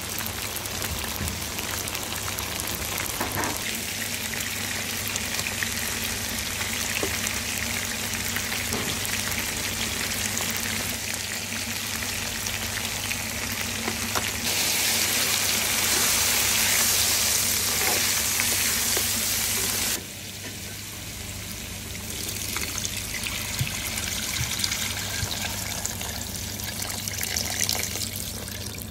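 Chicken pieces sizzling in hot oil in a wok, a steady frying hiss. It grows clearly louder for several seconds past the middle, then drops back suddenly.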